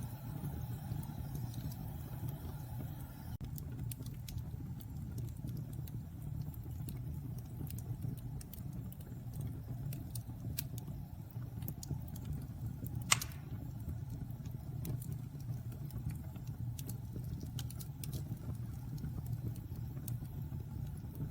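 Wood fire burning in a fireplace: a steady low rumble under scattered crackles, with one loud pop about halfway through.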